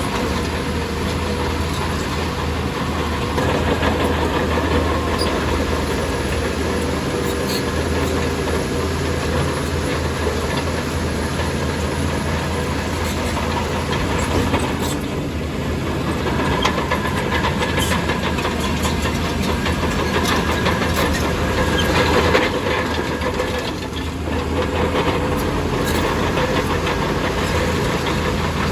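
Crawler bulldozer's diesel engine running steadily under load, with intermittent metallic clanking and clatter from its steel tracks.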